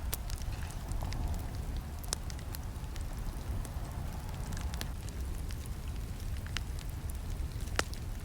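Wood campfire crackling: a steady low rumble of burning with scattered sharp pops and snaps throughout, the loudest pop near the end.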